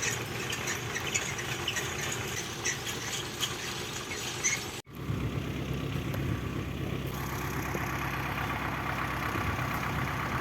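An engine running steadily throughout, with short high squeaks or chirps over it for the first half. About five seconds in, the sound cuts abruptly to a steadier, even engine hum.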